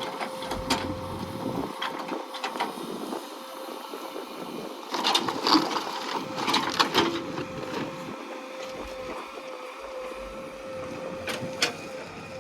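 Working machinery: a steady mechanical whine with scattered clanks and rattles, a cluster of them about five to seven seconds in and a few more near the end.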